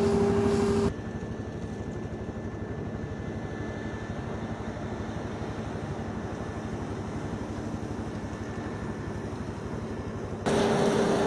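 New Holland CR 990 combine harvester running with a steady machine drone. It starts loud with a strong steady hum, drops suddenly to a quieter rumble about a second in, and comes back loud near the end.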